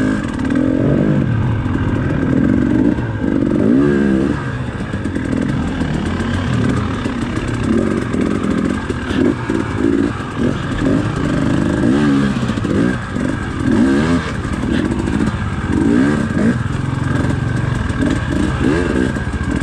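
Dirt bike engine under way, its revs rising and dropping again and again every second or two as the throttle is worked.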